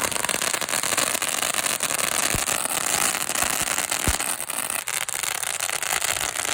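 Fireworks mounted on a bike going off together: a steady fizzing hiss, dense with rapid crackling pops.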